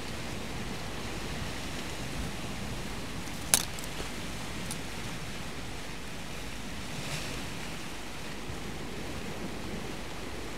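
Steady wash of sea surf, with one sharp click about a third of the way in.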